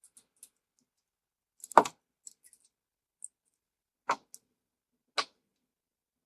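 A few sharp knocks and light clicks of objects being handled on a workbench. One loud knock comes about two seconds in and two smaller ones near the end, with faint ticks between.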